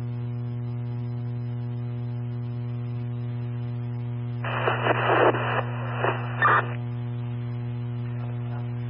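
Steady electrical hum on an FDNY dispatch radio channel. About four and a half seconds in comes a brief, garbled two-way radio transmission lasting about two seconds, too distorted to make out: a unit keying up and coming in unreadable.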